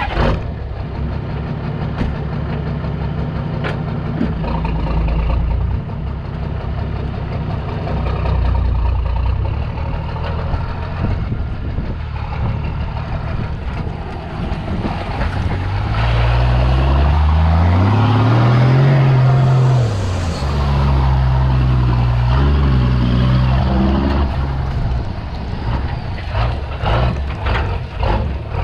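Vehicle engine working under load as it is driven into a dam, its pitch rising and falling several times in the second half as the throttle is worked.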